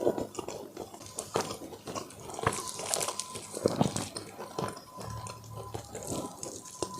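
Close-miked eating sounds: wet chewing and lip smacking with irregular sharp mouth clicks.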